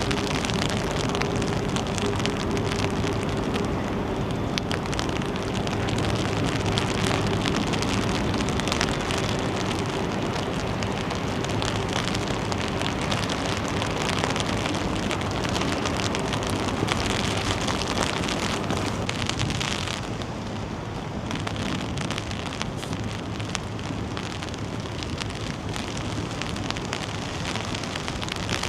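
Steady rain falling, with many small drop impacts close by. A low steady hum runs under it and fades out about halfway through.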